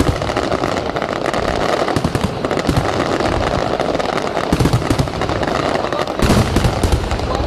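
Aerial fireworks display: continuous dense crackling and popping of exploding shells, with heavier bangs about four and a half and six seconds in.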